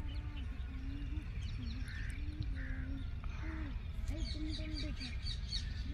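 Outdoor animal calls: a string of short, low pitched calls repeating about every half second, and a quick run of high bird chirps about four seconds in. A steady low wind rumble lies underneath.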